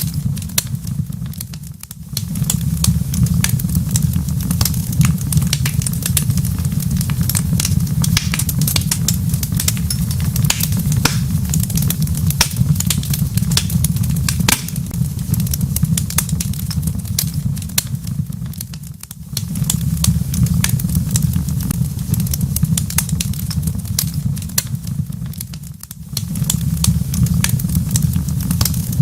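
Wood fire in a fireplace crackling, with many small sharp pops over a steady low rumble. The rumble briefly dips three times, about two, nineteen and twenty-six seconds in.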